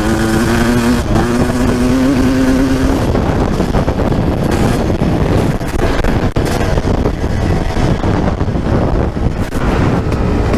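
Suzuki RM250 single-cylinder two-stroke dirt bike engine, fitted with an FMF Gold Series exhaust, running under way and holding a steady note for about three seconds, then turning into a loud, even rush of noise with no clear note.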